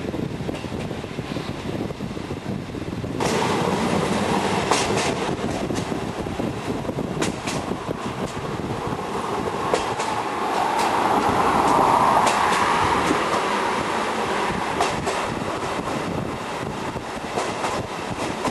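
Steam-hauled train running on the line behind BDZ locomotive 46.03, with clicks of the wheels over rail joints. The sound grows louder and brighter about three seconds in and is loudest a little past the middle.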